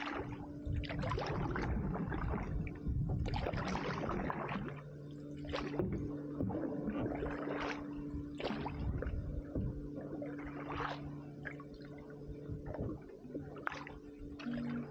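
Canoe paddle strokes: water splashing and gurgling off the blade roughly once a second, over a faint steady hum.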